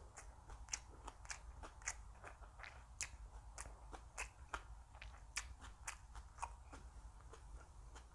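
Close-miked eating: crisp food being bitten and chewed, with many short, irregular crunches and mouth clicks, several a second, over a low steady hum.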